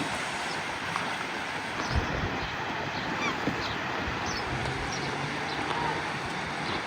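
Many short, scattered bird calls over a steady rush of sea surf, with a single low thump about two seconds in.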